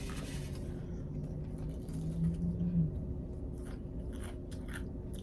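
Close-miked chewing of crispy fried chicken, with scattered crunching clicks and a brief low hum about two seconds in.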